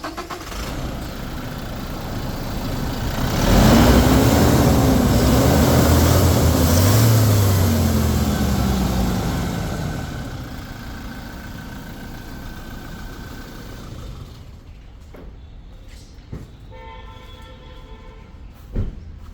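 Toyota Fortuner's engine running and being revved: the sound swells sharply about three and a half seconds in, the pitch rising and falling for several seconds, then it drops back towards idle.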